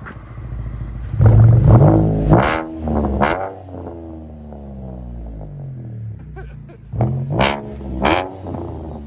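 Chevy Camaro 3.6 L V6 with Vibrant resonators and straight-piped true-dual rear exhaust, revved twice from idle and falling back to a steady idle between, with sharp cracks as the revs drop. The exhaust is loud and has a rasp that the shop wants to tone down with mufflers in the back.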